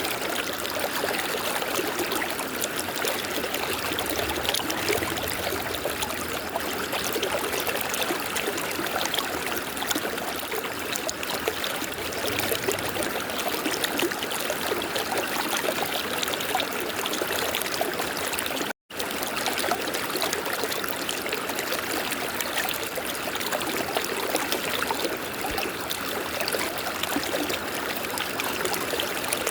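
River water flowing steadily over rocks, a continuous rushing and trickling. The sound cuts out for an instant about two-thirds of the way through.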